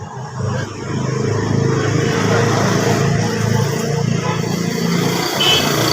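A motor vehicle's engine running, getting louder about a second in and then holding steady.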